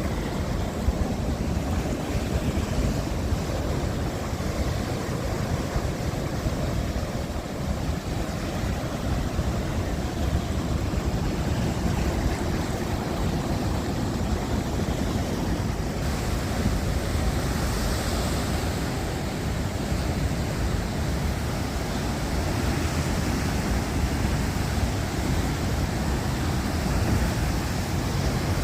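Sea surf washing onto a beach in a steady wash of noise, with wind rumbling on the microphone.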